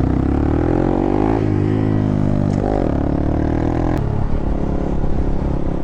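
Honda Grom's small single-cylinder engine running under way, its revs rising and falling with the throttle, with a sharp drop in pitch about a second and a half in and a change at a click about four seconds in, as at gear changes.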